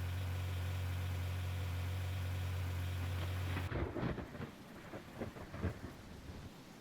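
A steady low hum cuts off abruptly a little over halfway through. Uneven rumbles of thunder follow, with a few sharper cracks.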